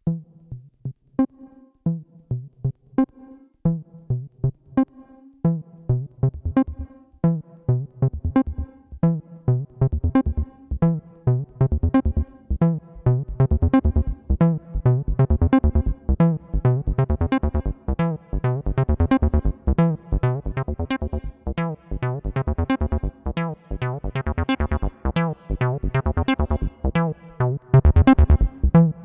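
Behringer TD-3-MO analog bass synthesizer playing a 303-style acid bassline sequence of short staccato notes. The pattern starts sparse, turns busier and brighter about eight seconds in, and gets louder near the end.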